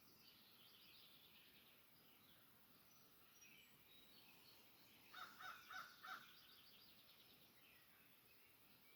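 Faint birdsong: several birds chirping and trilling, with four louder, short calls in quick succession about five seconds in.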